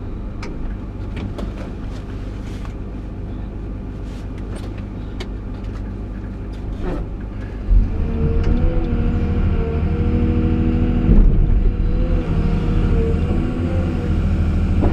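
Caterpillar 349E excavator's diesel engine running at low revs with a few light clicks, then revving up and running louder from about eight seconds in.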